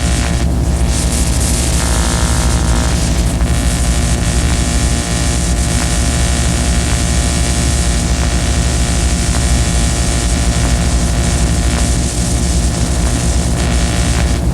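Harsh noise music: a loud, steady wall of droning low hum and hiss with many held tones, shifting slightly in the middle range a couple of seconds in.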